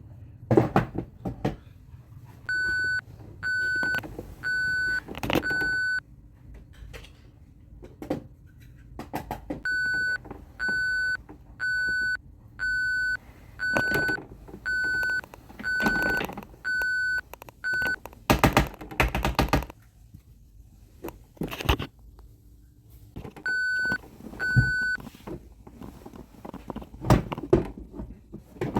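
Toy trash truck's electronic reversing beeper sounding in three runs of steady, evenly spaced beeps, about one a second. Knocks and clatter come from the plastic toy being handled and rolled, with a louder rattling burst about two-thirds of the way in.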